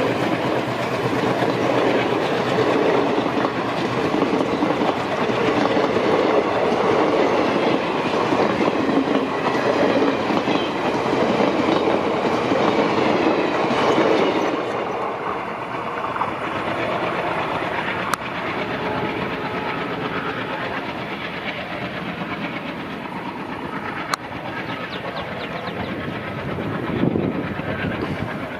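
Passenger coaches rushing past close by, their wheels clattering rhythmically over the rail joints. The noise eases off about halfway through as the train moves away.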